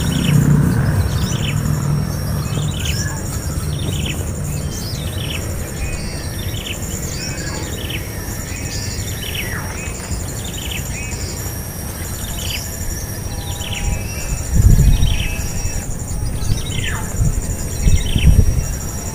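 A bird repeating a short, falling chirp about once a second, over a steady high insect buzz and pulsing insect trills. Two dull low thumps stand out near the end.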